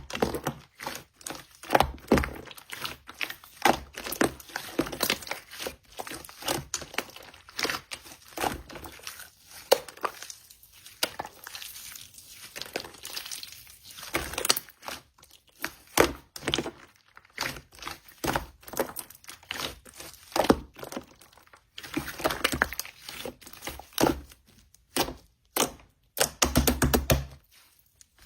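Slime being squeezed, poked and stretched by hand, giving dense runs of small clicks, pops and crackles with short pauses between handfuls.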